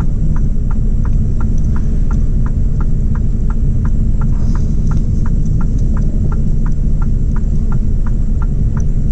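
Six-cylinder diesel truck engine rumbling steadily inside the cab, with a light, even ticking over it at about three ticks a second.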